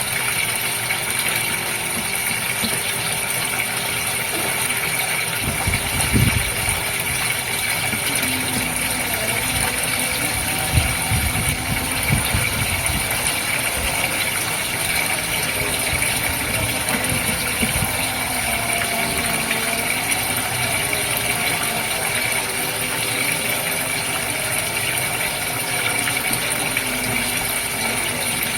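Goldfish aquarium water running with a steady hiss and hum. Brief low gurgling bursts come about six seconds in and again around eleven to thirteen seconds.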